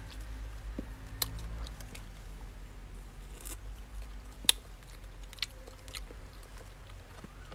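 Close-up chewing and mouth sounds of a person eating grilled tilapia and rice by hand, with a few sharp clicks, the loudest about four and a half seconds in, over a low steady rumble.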